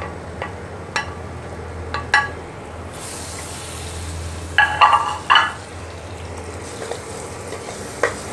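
Mixed vegetables sizzling in oil and masala in a pressure cooker pot as they are stirred, the freshly added vegetables starting to fry. A few light utensil knocks come in the first two seconds, the sizzling grows brighter about three seconds in, and a quick run of scrapes against the metal pot follows around five seconds.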